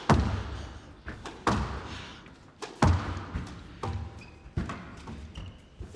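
Squash rally: a squash ball struck by rackets and hitting the court walls, giving sharp knocks roughly every second and a half, each with a short echo in the glass-walled court.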